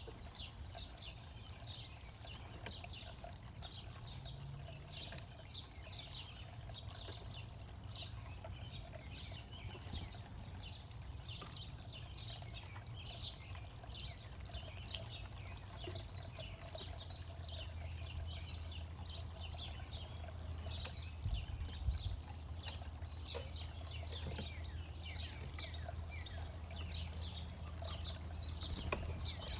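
Backyard birds chirping continuously, many short falling calls overlapping several times a second, over a steady low background rumble.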